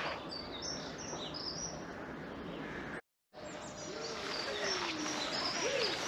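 Songbirds chirping in short, high calls over a steady background of outdoor noise. The sound cuts out completely for a moment about halfway through.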